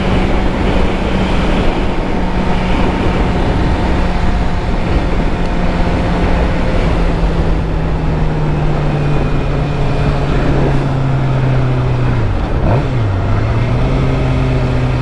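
2013 Suzuki GSX-R600's inline-four engine running under way, heard with steady wind rumble on the microphone. The engine note slowly sinks over the first eleven seconds, then dips sharply and comes back up about twelve seconds in.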